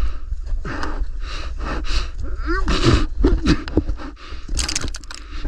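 A man panting hard with short strained grunts, out of breath from exertion, over a steady low wind rumble on the microphone; a few sharp clicks near the end.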